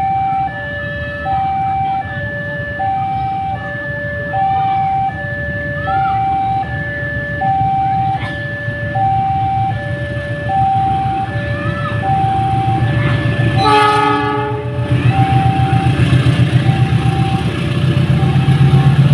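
Indonesian railway level-crossing warning alarm sounding its steady alternating high-low two-tone signal. About 14 s in a train horn blows for about a second, and then the train rumbles past with a low pulsing clatter while the alarm keeps sounding.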